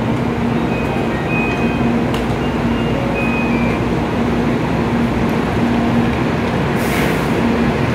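Stationary N700-series Shinkansen train humming steadily at the platform, a continuous noise with a steady low tone from its running equipment. A brief hiss comes about seven seconds in.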